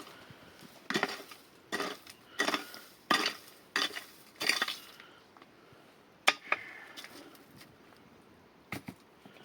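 Cookware being handled: about six rhythmic scraping strokes under a second apart against a pot or dish, then a single sharp clink and a couple of light knocks.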